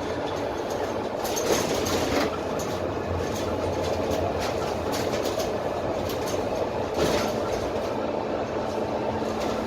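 Inside the lower deck of a Dennis Trident double-decker bus on the move: its Cummins ISMe diesel engine and road noise run as a steady drone, with body panels and fittings rattling and clicking. The rattles are louder briefly about a second and a half in and again about seven seconds in.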